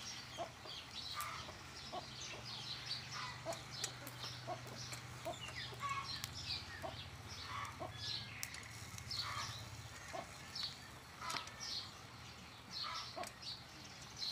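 Birds chirping over and over in short, high calls, with a faint low hum underneath that fades out about ten seconds in.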